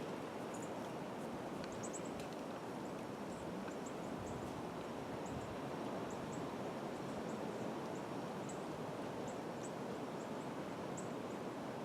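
Steady wind rustling through trees, with small birds giving short, high chirps every second or so.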